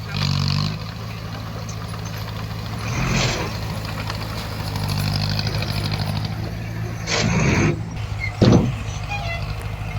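Bulldozer's diesel engine running steadily, with four short louder noisy rushes over it: near the start, about three seconds in, at seven seconds, and a sharp one about a second later.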